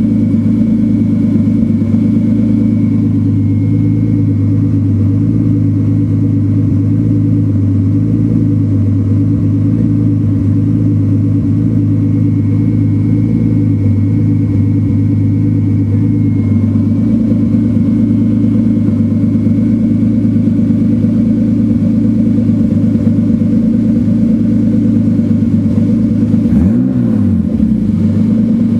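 Turbocharged 328's engine idling with a misfire, the idle wavering unevenly. Near the end the revs sag sharply and pick back up, with a single click at the dip.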